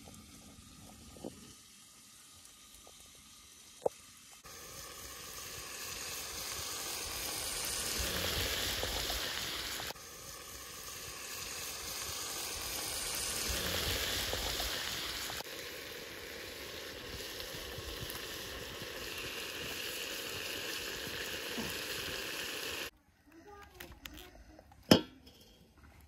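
Meat, potatoes, onions and tomatoes sizzling as they fry in a pot over a wood fire, in several clips that cut from one to the next. It starts quieter, with a couple of faint clicks, and near the end the sizzling cuts out, leaving a few sharp knocks.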